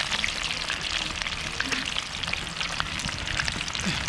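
Chicken leg pieces frying in hot oil: a steady sizzle dense with small crackling pops.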